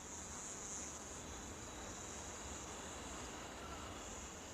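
Steady high-pitched chorus of insects, crickets trilling in one continuous band that swells slightly now and then.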